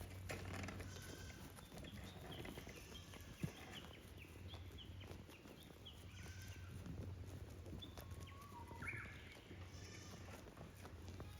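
Goats bleating now and then, faint against a steady low hum, with one sharp click about three and a half seconds in.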